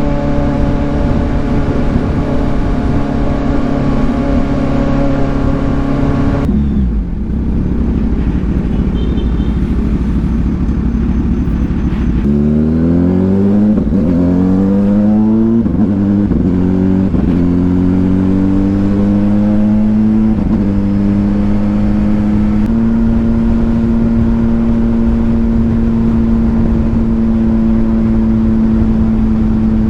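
2022 Kawasaki Ninja 1000SX inline-four with an aftermarket AR exhaust, heard from onboard. It holds a steady cruise, then the engine note drops off about six seconds in. From about twelve seconds in it accelerates, the pitch rising in steps through several gear changes, and it settles into a steady cruise for the last seven seconds.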